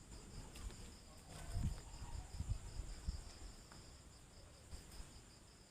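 Crickets chirping in an even pulse, about five a second, over a steady higher insect trill, with a few soft low thumps in the first half.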